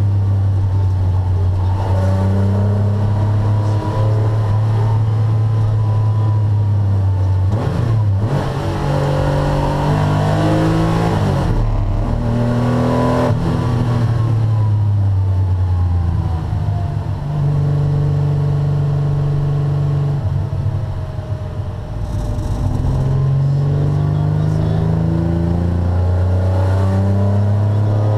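Porsche 911 SC's air-cooled 3.0-litre flat-six engine, heard from inside the cabin, driven hard on track. The note climbs under acceleration with short breaks at the gear changes, falls away around the middle as the car slows, holds steady, then climbs again near the end.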